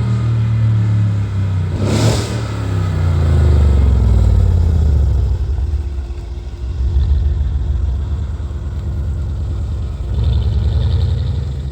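Modified 2016 Mercedes-AMG CLS63 S twin-turbo V8 with a full aftermarket exhaust, revving hard. A short sharp burst comes about two seconds in, then the engine note falls as the revs drop and settles into lower running. The revs rise again near the end, with a faint high hiss.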